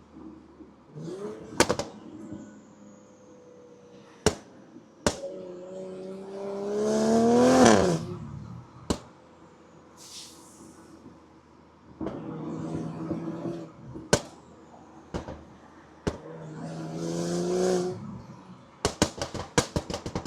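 Exhaust of a 2019 BMW X5 40i's turbocharged inline-six with a catless downpipe and burble tune, revving up in three short pulls of acceleration. Sharp exhaust pops come between the pulls, and a rapid burst of crackles comes near the end: the overrun burble the tune is made for.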